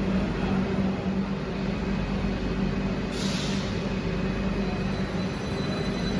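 A train at the station platform, running with a steady low hum, with a short hiss about halfway through.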